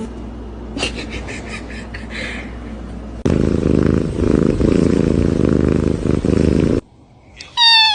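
A domestic cat purring loudly right at the microphone, a dense low rumble that cuts off suddenly; before it come a run of quick soft knocks, and near the end a short high-pitched call.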